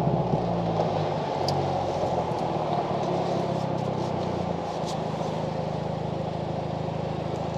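Car engine and road noise as the car slows to pull in and park; the engine's low steady note changes and fades back about four and a half seconds in.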